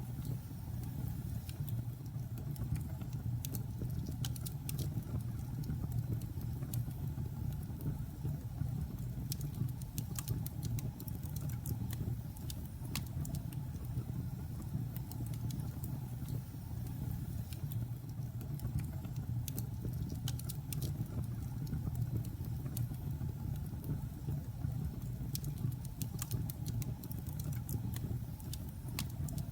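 Logs burning in a fireplace: a steady low rumble of the fire with scattered sharp crackles and pops at irregular intervals.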